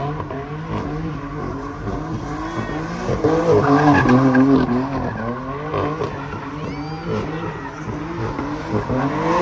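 A car's engine revving hard, its revs rising and falling over and over, with tyres squealing and skidding as the car spins.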